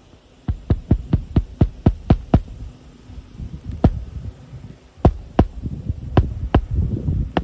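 Hammer driving roofing nails into a new 3-tab asphalt shingle: quick sharp strikes about four a second, in a run of about eight, a single blow, then another run near the end.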